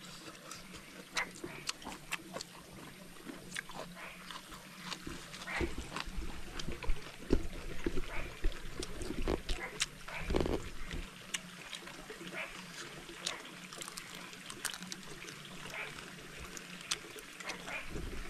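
Eating noises close to the microphone: chewing and lip-smacking with many scattered sharp clicks, busiest in the middle, over a faint trickle of water.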